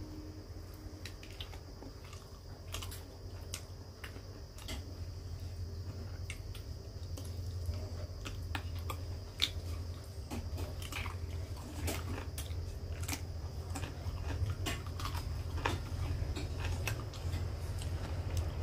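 A person chewing a mouthful of food, with many short wet clicks and smacks from the mouth, over a steady low hum.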